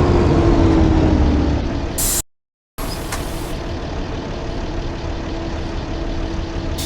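Blue Bird school bus engine running with road noise, its pitch falling over the first two seconds as the bus slows, then running steadily after a brief break in the sound about two seconds in.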